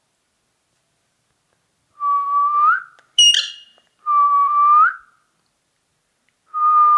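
Three drawn-out whistles, each held at one pitch and turning upward at the end. Between the first two comes one short, shrill, falling chirp from a ringneck parrot.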